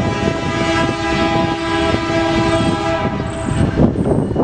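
Diesel locomotive air horn on a Canadian Pacific lead unit sounding a long steady chord blast for a grade crossing, stopping about three seconds in before the next blast starts.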